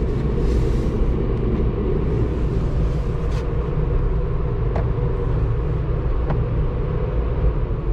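Steady low rumble heard from inside a vehicle's cabin, with a few faint clicks.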